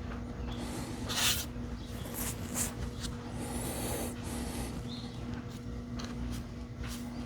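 Cylindrical lithium-ion battery cells being handled and slid into place on a bench, with a few short scrapes and clicks, over a steady low hum.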